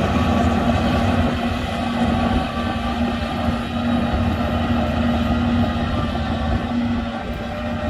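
Shantui DH17C2 bulldozer's diesel engine running steadily with a constant low drone.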